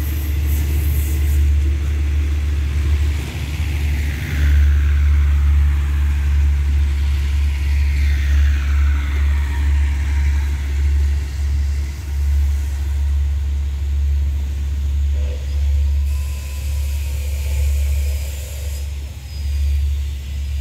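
Passenger carriages of a diesel-hauled train rolling past and pulling away, a steady low rumble with a few faint falling whines.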